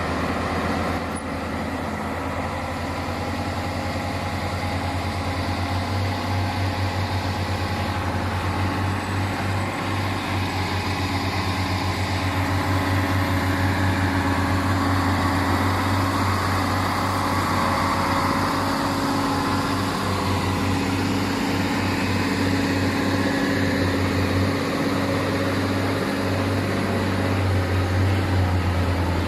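Heavy diesel trucks running, with a steady low engine drone over traffic noise that swells slightly over the first dozen seconds.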